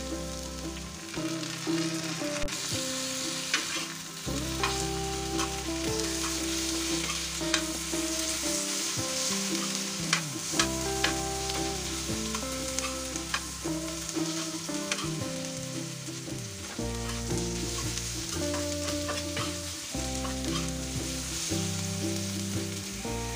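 Onions and chopped tomatoes sizzling in hot oil on a dosa pan, stirred with a metal spatula that scrapes and clicks against the pan now and then.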